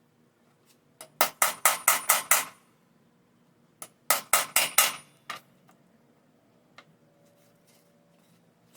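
Hammer striking the metal punch or setter of a grommet installation kit, driving through a leather belt onto a plastic backing piece. There are two quick runs of blows, about four a second: six or so, then four or five a few seconds later, with a single knock before and after the second run.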